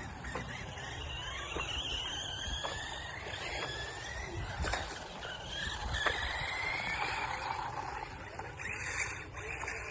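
Radio-controlled cars' motors whining, several times, the pitch rising slowly as the cars speed up, over outdoor background noise.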